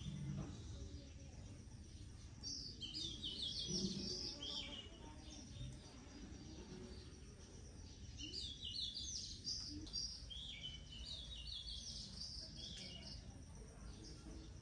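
Small birds chirping in groups of quick, stepped high notes, a few seconds in and again through the second half, over a steady low outdoor background noise.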